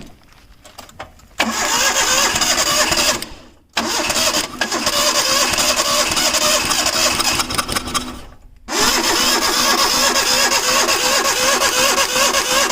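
Hyundai EON's three-cylinder petrol engine turned over on its starter motor in three long cranks with short pauses between, without firing. It is cranked to clear the rust inside so it does not get into the cylinders.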